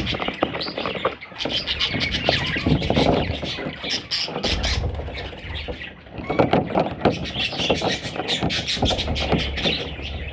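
Pet budgerigars chattering and squealing, with many sharp clicks mixed in.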